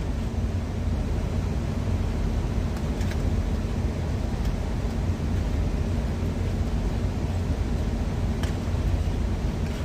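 Steady low hum of an idling semi-truck engine heard inside the cab, with a few faint clicks.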